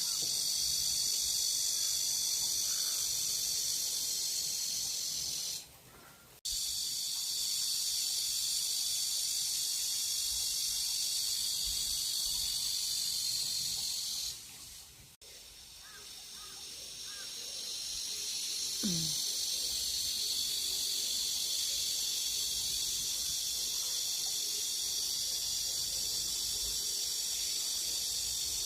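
A chorus of cicadas (sseurarami) shrilling in a steady high-pitched buzz. It cuts out abruptly twice: the first time it returns within a second, the second time it swells back over a few seconds. A short, low, falling sound comes about two-thirds of the way through.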